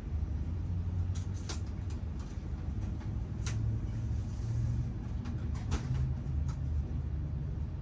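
Passenger train carriage interior rumble as the train moves slowly through a station, with about six short, sharp clicks or creaks spread through it.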